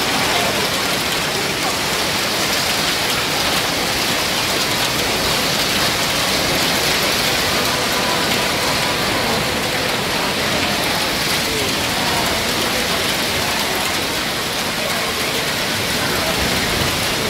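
Hailstorm: a dense, steady downpour of hail and rain drumming on surfaces.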